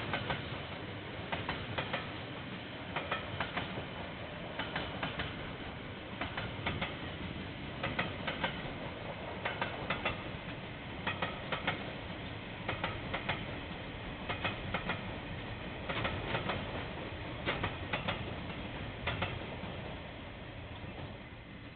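A passing train's wheels clicking over the rail joints: evenly spaced pairs of clicks about every one and a half seconds over a steady rumble, the clicking stopping and the rumble fading near the end.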